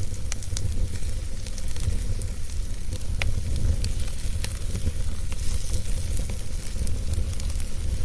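Wood fire burning in a fireplace: a steady low rumble of the flames with frequent small sharp crackles and pops, one louder pop about three seconds in.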